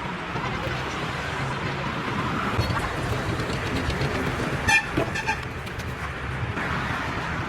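Vehicle horn giving two short toots about half a second apart, over a steady low rumble of engine and road noise.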